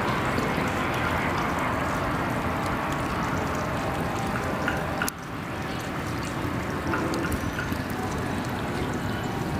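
A train passing close by: a steady rush of wheel and rail noise. About five seconds in, the level drops suddenly, then the same noise carries on.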